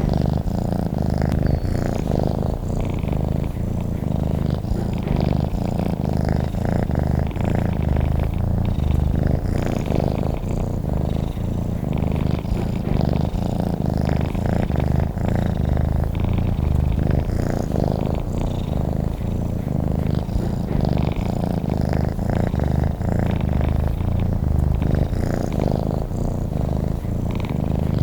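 Domestic cat purring, a steady, continuous low rumble that never breaks.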